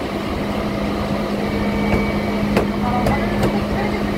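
Electric suburban local train running: steady rumble of wheels on track under a constant low hum, with a few sharp clicks a little past halfway.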